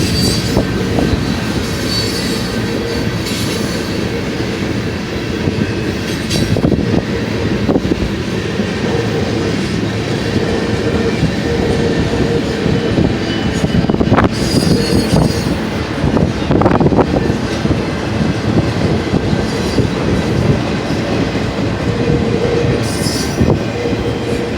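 Freight cars of a long manifest train rolling past, a steady heavy rumble of steel wheels on rail with repeated clacks over the rail joints and an intermittent wheel squeal.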